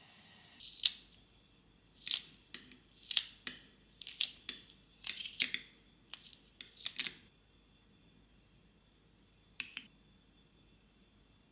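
Kitchenware clinking: a quick run of sharp clinks and taps, each with a short bright ring, over about six seconds. One more clink follows near the end.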